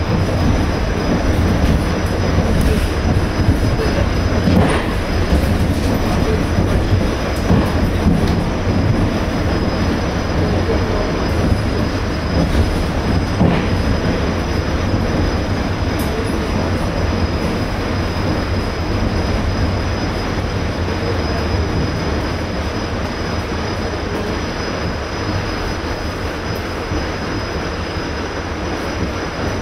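ED4M electric multiple unit running along the line, heard from inside the carriage: a steady rumble of wheels on rail with a few sharp knocks and a thin steady high whine over it. It eases off slightly over the last several seconds.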